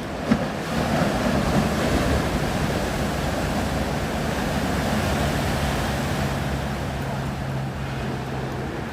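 Steady rushing noise of wind and water, with a low steady hum underneath from about halfway on and a short knock just after the start.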